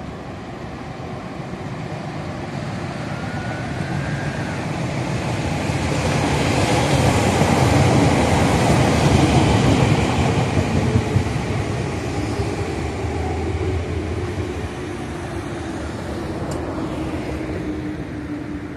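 Two Meitetsu electric commuter trains passing each other on the tracks below, their wheel-on-rail rumble building to a peak about halfway through and then fading as they pull away.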